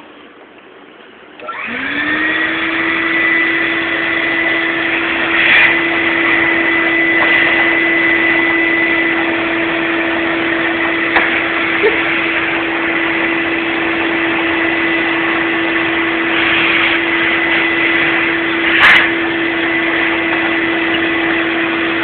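Vacuum cleaner switched on about a second and a half in: its motor spins up, then runs steadily with a hum and a high whine. A few brief knocks sound over it.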